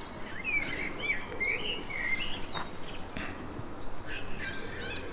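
Small birds chirping and singing in quick, short calls that rise and fall, one after another, over a steady outdoor background hiss.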